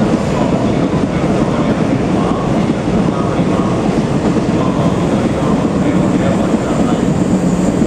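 N700A Shinkansen trainset pulling into the platform, a steady, loud rumble of wheels and running gear as it rolls in to stop.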